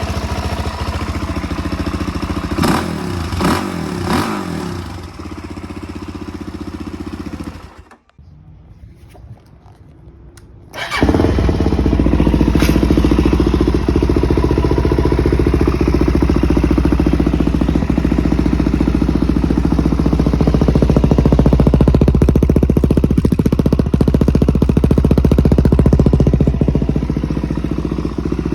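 Suzuki DR-Z400S single-cylinder four-stroke engine running through a new full Akrapovic exhaust system, blipped three times in quick succession. After about eight seconds the sound drops out for some three seconds, then the engine runs again, louder and steady.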